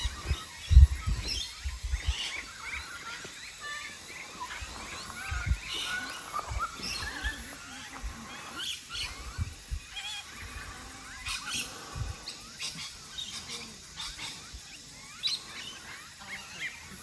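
Birds chirping and calling, many short high chirps throughout, with a few low thumps, the loudest about a second in.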